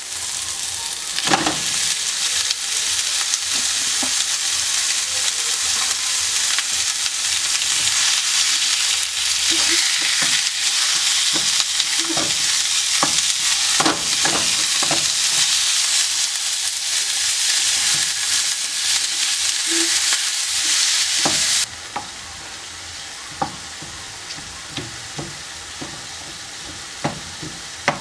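Food sizzling in a hot pan while being stirred, with a utensil knocking against the pan now and then. About 22 s in, the sizzle drops off suddenly to a much quieter hiss, with a few more knocks near the end.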